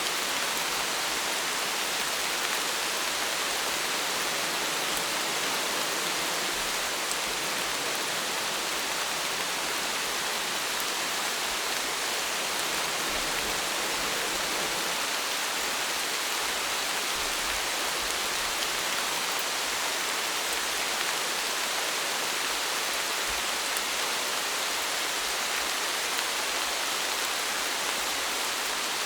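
Steady rain, an even hiss with faint scattered drop ticks, unchanging throughout.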